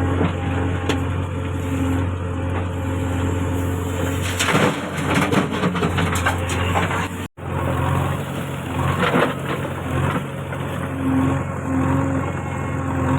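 Diesel engine of a JCB 3DX backhoe loader running steadily under work, with bursts of clattering and scraping as the bucket handles mud, about four to six seconds in and again near nine seconds. The sound drops out for an instant about seven seconds in.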